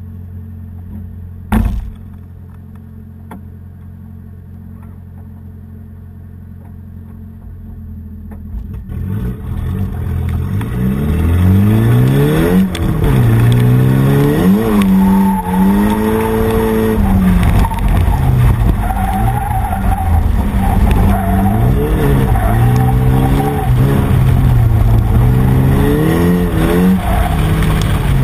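Drift car's engine idling steadily, with a car door shutting with a single sharp thud about a second and a half in. From about nine seconds the engine revs hard, its pitch climbing and dropping again and again as the car is driven and drifted, with a wavering tyre squeal over it.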